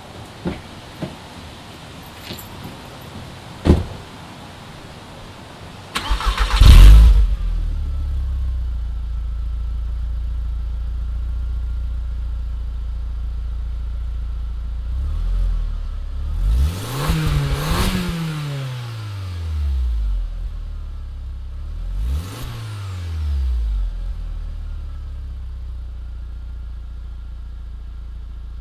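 A few light clicks and a knock, then the VW Golf 1.8T's turbocharged four-cylinder is cranked and catches about six seconds in. It flares up loudly and settles to a steady idle through the stock exhaust. It is then revved in several short blips that rise and fall back to idle.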